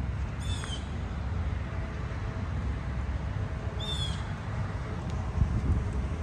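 A bird calls twice, each call a quick run of notes stepping down in pitch, about three and a half seconds apart, over a steady low outdoor rumble.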